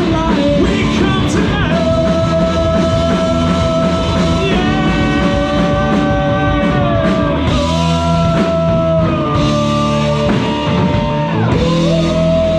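Live rock band playing loudly, with a lead line of long held notes that slide up or down into each pitch over a full bass and drum backing.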